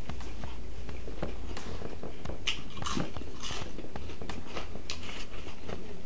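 Two people chewing and biting into lettuce-wrapped cheeseburgers and cauliflower fries: a run of wet mouth clicks and smacks over a steady low hum.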